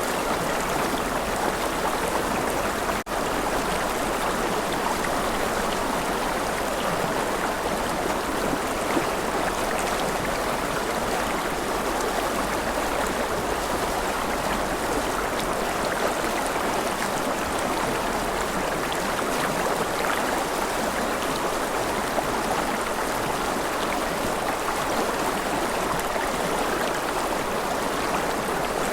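A river flowing: a steady, even rush of running water, with a momentary dropout about three seconds in.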